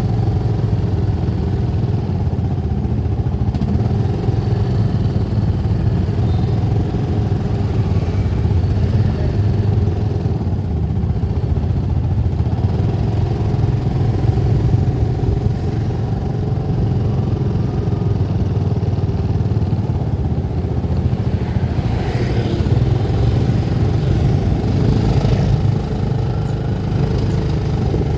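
A vehicle engine running steadily, heard from on board while travelling, with road noise.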